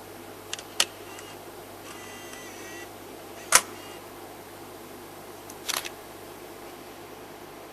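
A handful of short, sharp clicks over steady background hiss: two close together near the start, the loudest about three and a half seconds in, and a quick double click near six seconds.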